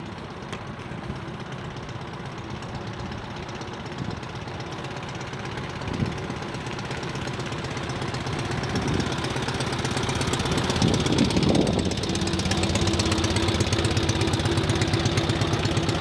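The 1981 Cushman Truckster's two-cylinder, four-stroke, air-cooled OMC engine running, with a few brief revs, growing louder over the second half.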